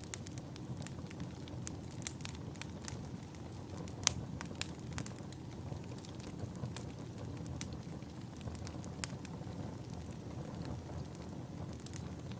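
Log fire burning in a fireplace: irregular sharp crackles and pops over a steady low rumble, with one louder pop about four seconds in.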